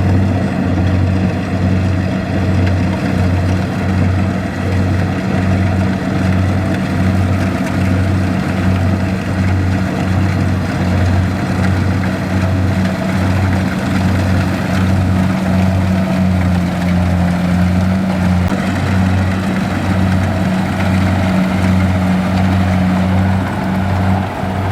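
Kubota DC-70 rice combine harvester running steadily, a loud diesel hum with an even, rhythmic throb of about one and a half beats a second.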